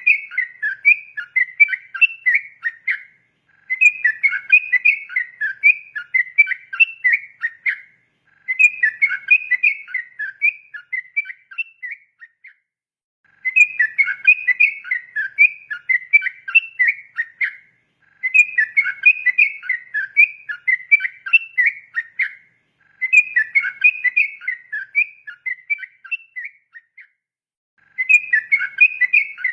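Yellow-vented bulbul (trucukan) singing in long, rapid bubbling phrases of quick whistled notes. It sings about six phrases, each a few seconds long, with short pauses between them.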